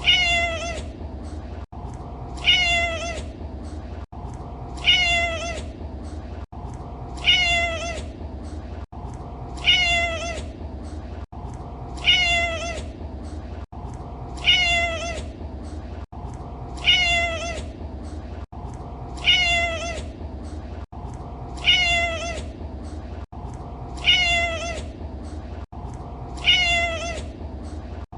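A domestic cat meowing, the same short meow repeated about every two and a half seconds, each one loud at the start and falling away, over a steady low hum.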